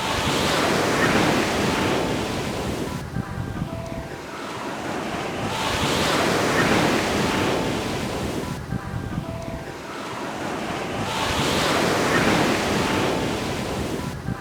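Ocean waves breaking and washing up a beach. The surf swells and fades three times, about five seconds apart.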